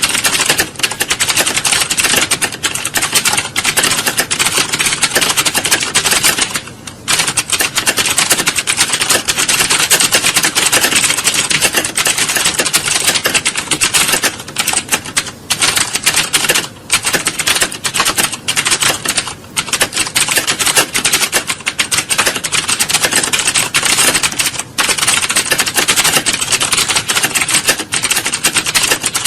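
Fast, continuous typing on a computer keyboard: a dense stream of key clicks with a few brief pauses.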